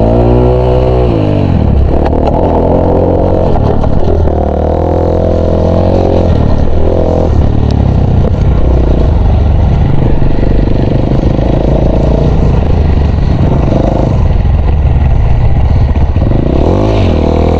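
Dirt bike engine being ridden, revving up and down again and again, its pitch rising and falling with the throttle and gear changes over a steady low rumble.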